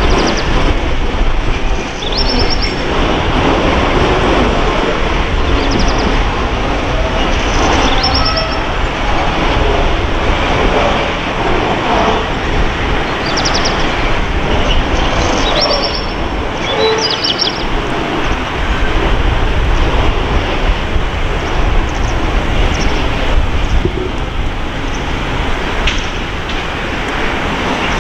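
Train running close by: a steady loud rumble, with short high squeals every few seconds.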